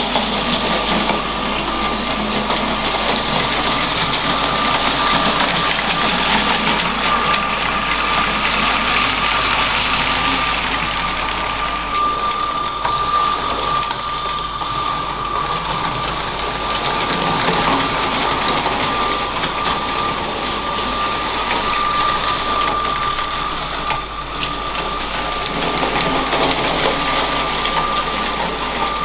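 A LEGO train's small electric motor running with a steady high whine, its wheels rattling along plastic track; the sound fades a little and swells again as the train moves farther off and comes back.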